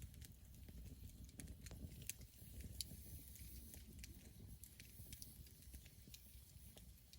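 Campfire wood crackling: irregular, sharp pops and snaps scattered over a low rumble.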